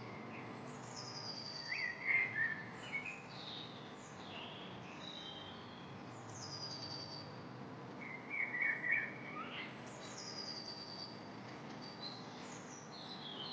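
Wild forest birds calling over a steady background hiss. One bird repeats a high, falling trill every four to five seconds. Louder, lower chattering calls come twice, about two seconds in and again near nine seconds.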